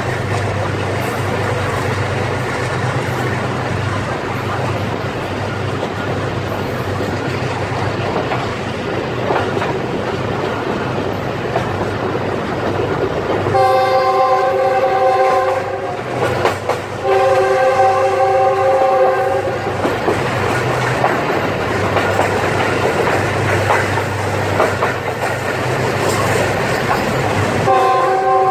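Diesel-hauled passenger train running, heard from an open coach window: a steady rumble of wheels on the rails with a low drone underneath. About halfway through, the train's locomotive horn, a GE U20 diesel-electric's, sounds two long chord blasts of about two and a half seconds each, and a third blast starts near the end.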